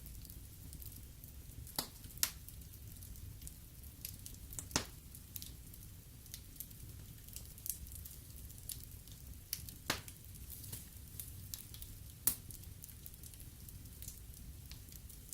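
Wood fire burning in a fireplace: irregular crackles and sharp pops over a low, steady rumble. A few pops stand out louder, about two, five, ten and twelve seconds in.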